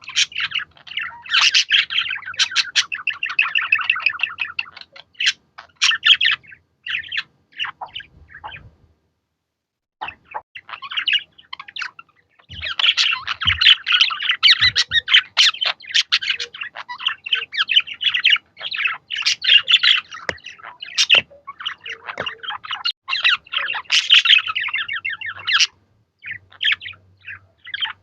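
Budgerigars chattering in quick, high, dense chirps. The chatter thins out and stops for about a second near the middle, then starts up again just as busily.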